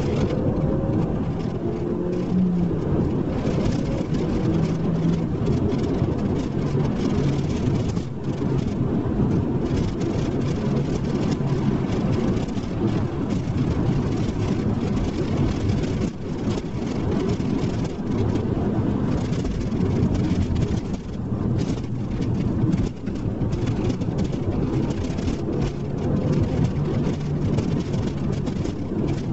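SEAT Leon Cupra R's engine running as the car is driven, its note shifting up and down in pitch over steady road and tyre noise.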